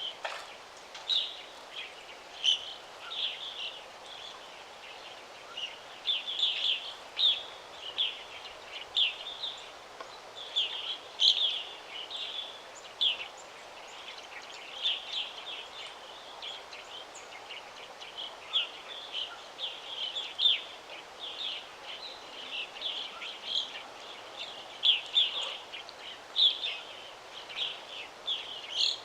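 Birds chirping in short, quick calls over a faint steady background hiss of breeze.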